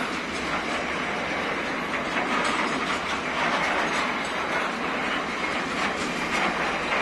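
Container wagons of an intermodal freight train rolling past, with a steady rumble of wheels on rail and light clicks and clanks from the bogies every second or so.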